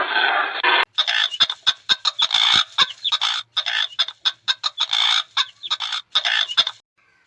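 Chicken clucking: a quick, uneven run of short calls that starts about a second in and stops shortly before the end. A different, continuous noisy sound carried over from the previous clip fills the first moment.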